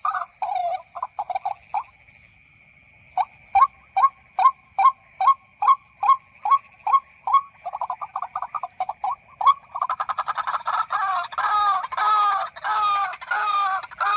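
White-breasted waterhen calls. After a short pause, sharp notes repeat about two and a half times a second and quicken. From about ten seconds in they become a dense run of overlapping croaking calls. A steady thin high whine sits behind them.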